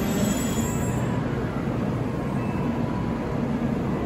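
N700-series Shinkansen train rolling slowly along the platform as it comes to a stop: a steady low rumble and hum of the running gear, with a high hiss dying away in the first second.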